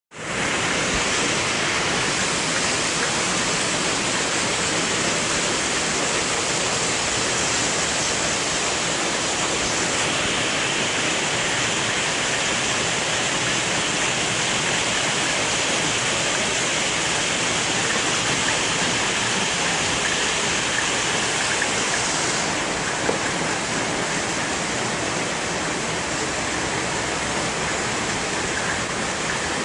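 Storm-swollen stream running very strong and fast: a loud, steady rush of water.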